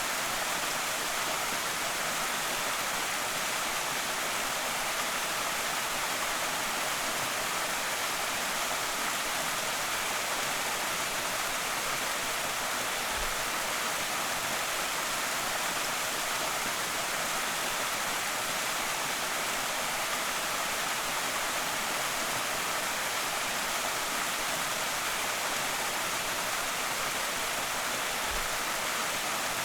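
Slateford Creek's waterfalls splashing and rushing steadily: an even, unbroken hiss of falling water.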